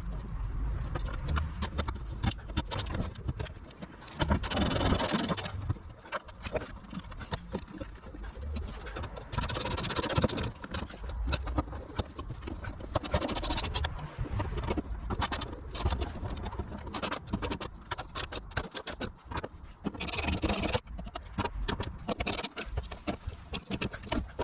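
Hand work on exhaust mounting hardware: metal clicks and knocks of bolts, washers and tools, with several short stretches of scraping or rasping.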